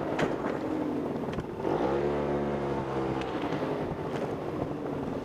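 A motor vehicle engine revs up about two seconds in, holds for a moment and then dies away, over steady wind noise.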